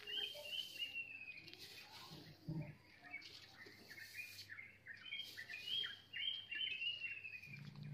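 Small birds chirping: series of short, slightly falling high notes in two bouts, one near the start and another about two-thirds of the way through. Faint rustling of dry rice husks being scooped by hand runs underneath.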